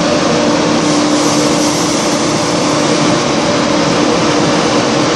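Class 170 Turbostar diesel multiple unit standing at the platform with its underfloor diesel engines running: a loud, steady engine hum and rush of noise with no change in pitch.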